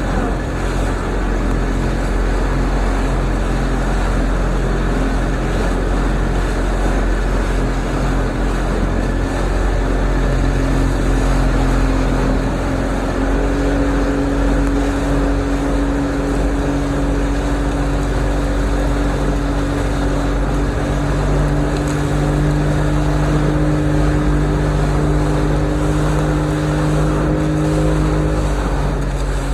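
Motorboat engine running steadily underway, with rushing water and hull noise; its pitch steps up slightly about halfway through and holds.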